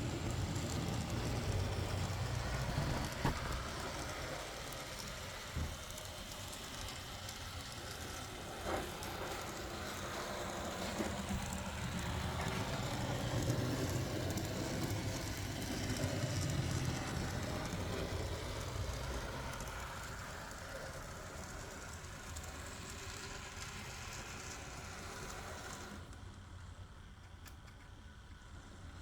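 Z scale model diesel locomotive (AZL SD70) running along the track: the steady rattling noise of its small motor and wheels on the rails, with a few sharp clicks, growing quieter toward the end.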